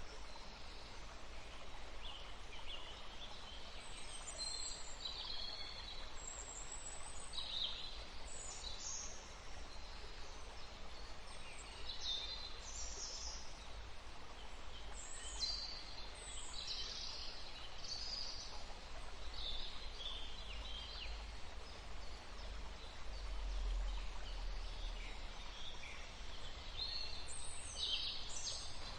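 Wild songbirds chirping and trilling in short, scattered calls, several birds overlapping at times, over a steady low background rumble.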